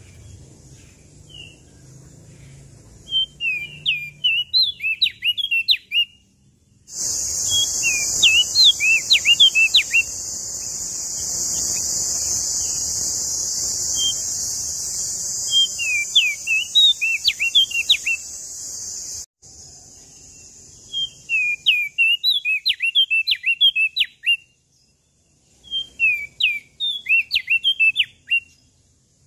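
Prenjak daun lombok songbird singing in short, rapid phrases of quick up-and-down whistled notes, repeated with pauses. A steady high hiss joins in about a quarter of the way through and stops suddenly about two-thirds of the way through.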